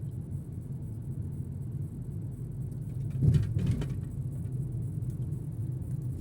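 Steady low rumble of a car's engine heard from inside the cabin, with a short burst of noise about three seconds in.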